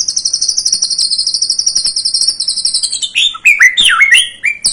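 White-rumped shama (murai batu) song played as a lure recording to set off young shamas: a fast, high trill of rapidly repeated notes that slowly drops in pitch for about three seconds, then a quick run of louder swooping whistles, and a new trill starting right at the end.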